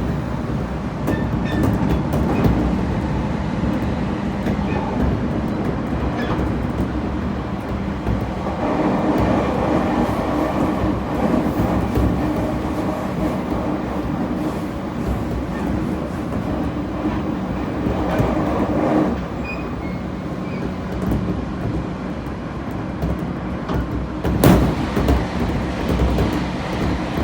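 JR Kyushu 811 series electric train running, heard from inside the car: steady wheel and rail noise, with the internally ventilated traction motors' drone growing louder about a third of the way in and cutting off abruptly about two-thirds through. A single sharp knock comes near the end.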